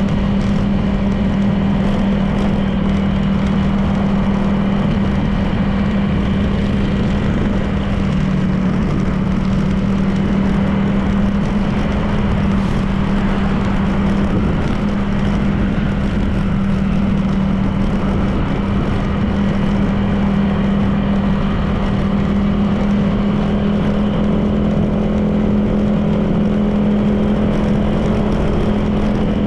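Honda PCX 160 scooter's single-cylinder four-stroke engine running at a steady, unchanging pitch as it cruises at constant speed, over continuous road noise.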